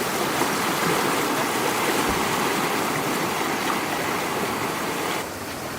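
Flowing floodwater rushing steadily, dipping slightly near the end.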